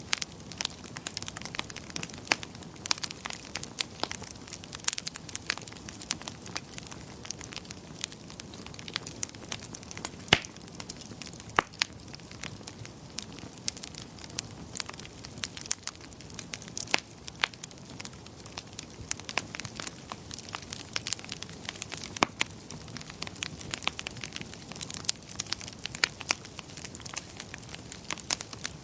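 Wood fire crackling in a fireplace: a steady low rumble of flames with frequent irregular pops and snaps, one sharper snap about ten seconds in.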